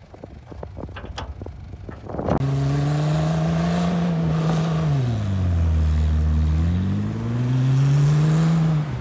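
A vehicle engine revving hard under load during a snow recovery with a tow strap. A few knocks come first, then the engine starts loud about two and a half seconds in. It holds high revs, drops lower around the middle, climbs again, and cuts off just before the end.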